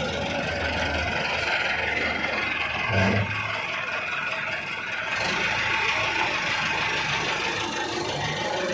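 A motor engine running steadily, with a brief louder low hum about three seconds in.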